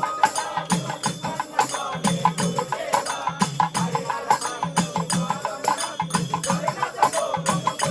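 Instrumental break in a devotional bhajan: a steady, fast rhythm of jingling hand percussion and clacks over recurring drum beats.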